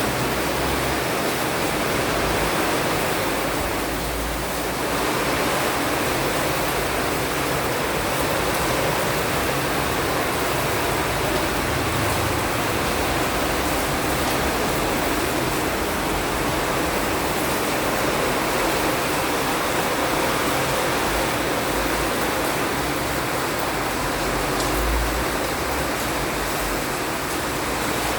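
Steady heavy rain falling, an even rushing hiss with no breaks.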